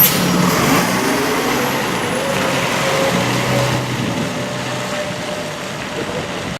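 Fire truck's diesel engine running, a steady low hum with a faint whine over a haze of traffic-like noise, slowly fading.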